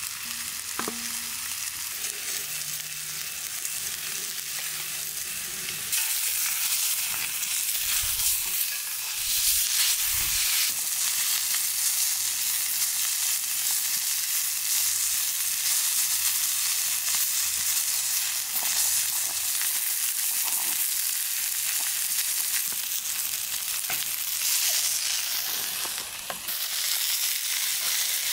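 Steaks and garlic sizzling in a cast-iron skillet alongside vegetables frying in a second cast-iron pan, a steady hiss that grows louder about six seconds in. A few low knocks and spoon strokes against the pan come through the sizzle.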